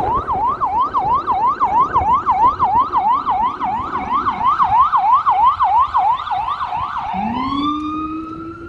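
Emergency vehicle siren in a fast yelp, sweeping up and down about three and a half times a second, then switching a little after seven seconds to a slow rising wail.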